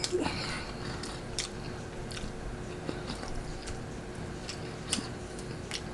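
Close-miked chewing of spaghetti, with soft wet mouth sounds and scattered small clicks.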